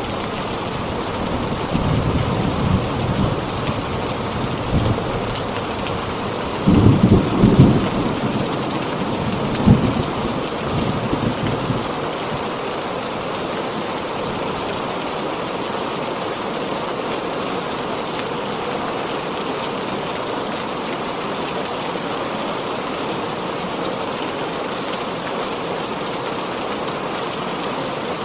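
Heavy rain falling steadily, with thunder rumbling low through the first twelve seconds or so, loudest about seven seconds in and again briefly near ten seconds.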